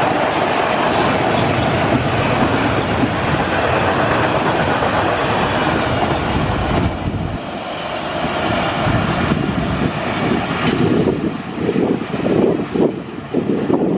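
Freight train of flatcars rolling past, its wheels clacking over the rail joints. About seven seconds in the sound drops, then returns as a more uneven rumble as the diesel-hauled train approaches.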